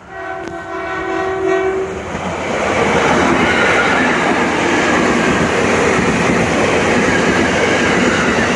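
Passenger train sounding one long horn blast of about two seconds. The train then passes close by, and the noise of its wheels on the rails builds over about a second and stays loud.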